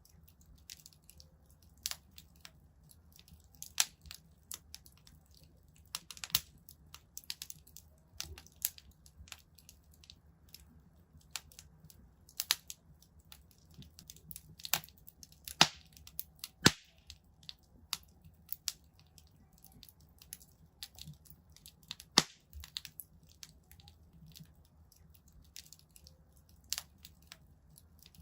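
Wood fire crackling in a fireplace: irregular sharp pops and snaps, a few of them much louder than the rest, over a faint low hum.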